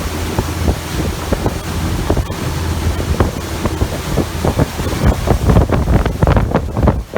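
Wind buffeting the microphone on a motorboat underway, with water rushing past the hull and a low drone underneath.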